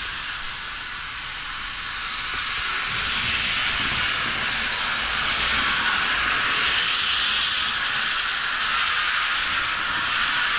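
Märklin model train running on its layout: a steady whirring hiss that grows louder about two to three seconds in.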